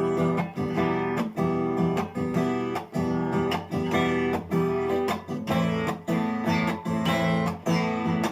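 Acoustic guitar strummed chords in a steady, even rhythm, an instrumental break with no singing.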